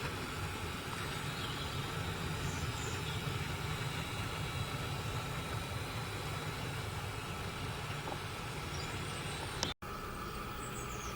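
Model diesel locomotive running past: a steady low engine drone mixed with the train's rolling noise. The sound cuts out for an instant about ten seconds in, then carries on.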